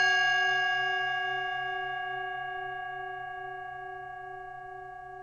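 Singing bowl ringing after a single strike, its tone with many overtones slowly dying away and wavering gently in the low hum.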